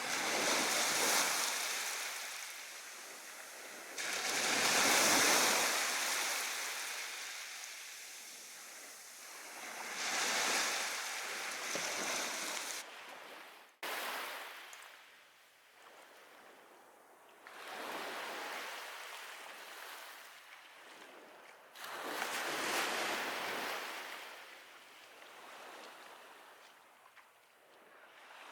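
Sea waves washing onto the shore: a hissing rush that swells and fades every three to four seconds, with a sudden break about halfway through.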